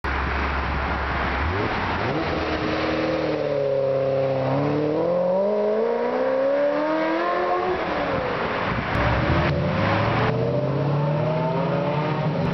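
Supercar engine accelerating hard, its pitch climbing under load and dropping away after a few seconds, then another long, steady climb in pitch in the later seconds.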